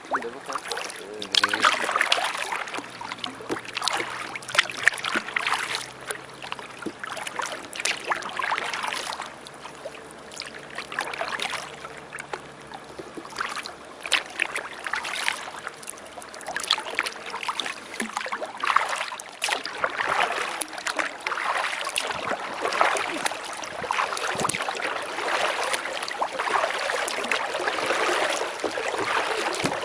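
Kayak paddle strokes splashing in river water, one stroke every second or two in a steady rhythm.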